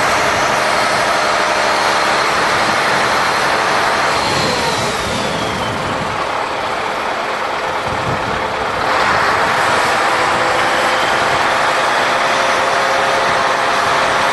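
Scania V8 truck engine running steadily. A high whine falls away about four to six seconds in, the sound eases a little, then the engine picks up again about nine seconds in.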